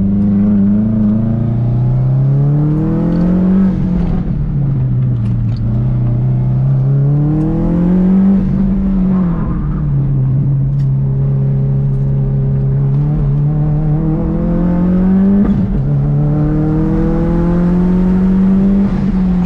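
A car's engine heard from inside the cabin, revving up and dropping back several times as the car accelerates hard and eases off between corners, with a long steady climb in pitch near the end.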